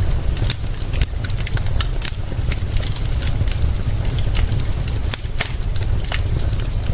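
Wood fire crackling, with frequent irregular sharp pops and snaps over a steady deep rumble.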